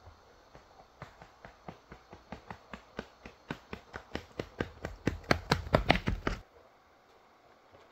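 A quickening series of sharp knocks that grows louder and stops suddenly about six seconds in.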